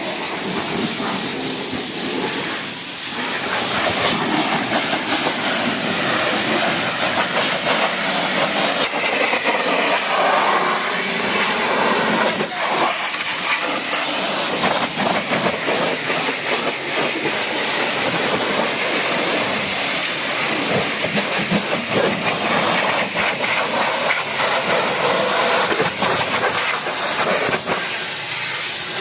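High-pressure washer spraying water: a steady, loud hiss.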